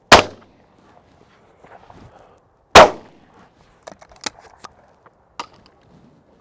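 Two shotgun shots about two and a half seconds apart, each a sharp loud crack that trails off quickly, followed by a few light sharp clicks.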